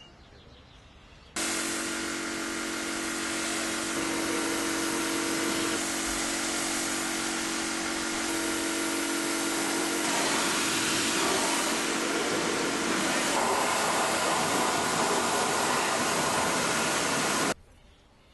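A car wash cleaning machine running: a steady motor hum under a loud hiss, switched on suddenly about a second in and cut off suddenly near the end.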